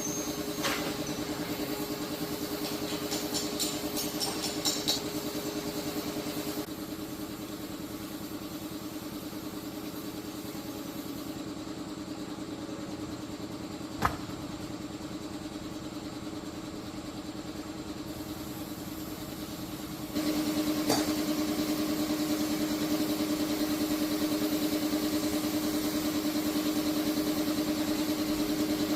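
An engine running steadily, heard in three stretches that change level abruptly about 7 and 20 seconds in, the last one louder. There are a few light clicks early and one sharp click about halfway through.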